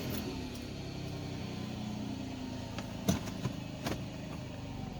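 2005 Nissan Maxima's 3.5-litre V6 idling just after starting, its idle easing slightly lower, with two sharp clicks about three and four seconds in.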